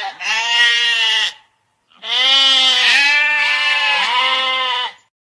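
Goat bleating twice: a shorter bleat, then after a pause a long, quavering bleat lasting about three seconds.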